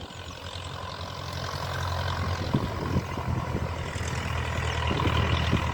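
Low, steady engine drone, slowly growing louder, with a few faint clicks and rustles over it.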